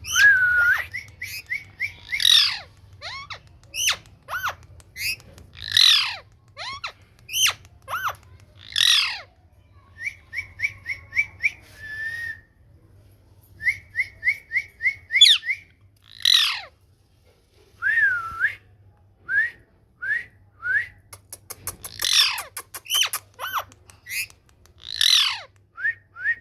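Ringneck parrot (rose-ringed parakeet) screeching and whistling. Loud harsh calls alternate with short whistled notes, including quick runs of repeated whistles and a few up-and-down whistle glides.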